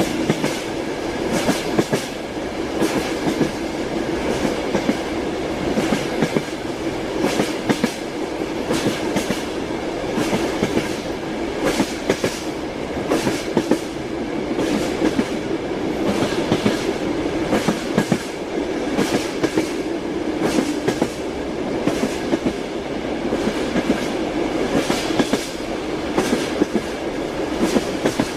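Train wheels knocking over rail joints in a steady clickety-clack, the knocks often coming in quick pairs every second or so over a continuous rolling rumble, heard from inside a moving railway carriage.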